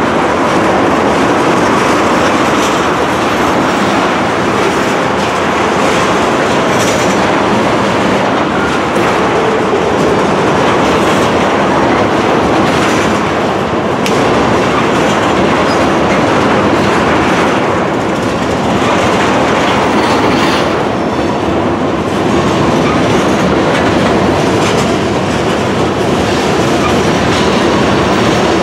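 Freight train of tank cars rolling steadily past, a loud, continuous noise of steel wheels on rail with scattered clicks as the wheels pass over rail joints.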